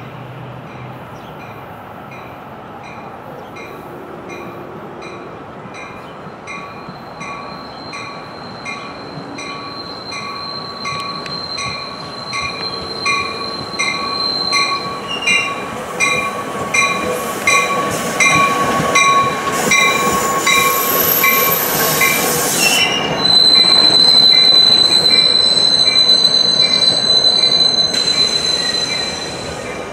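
NJ Transit commuter train drawing in, growing louder through the second half, with a high steady squeal from its brakes and wheels. A bell keeps dinging about twice a second.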